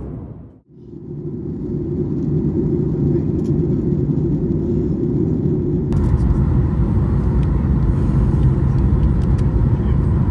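Steady cabin noise of a jet airliner: a loud, even rumble with a low hum. About six seconds in it cuts to a louder, fuller stretch of the same noise.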